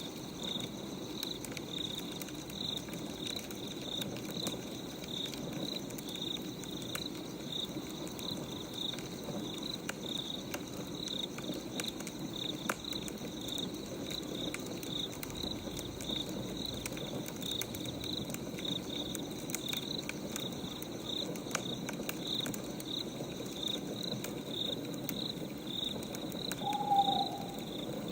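Wood fire crackling, with scattered sharp pops, over steady cricket chirping about twice a second; a brief hoot near the end.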